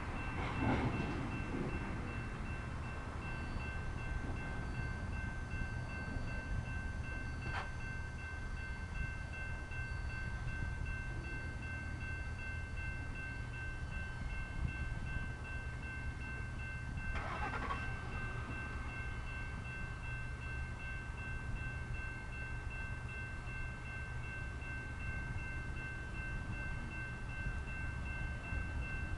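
General Signals Type 2 electronic grade-crossing bells ringing continuously over the steady low rumble of a freight train rolling slowly through the crossing into the siding. There are brief whooshes near the start and about 17 seconds in, and a short click midway.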